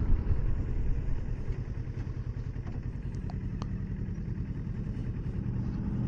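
Kawasaki Versys 650's parallel-twin engine running under way at low revs, with road and wind noise. The sound drops over the first second or two, then builds again near the end.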